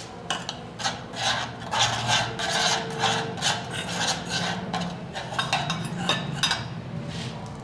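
Quick irregular scraping strokes of a utensil rubbing against a dish as fine ash is mixed with paint thinner into a paste.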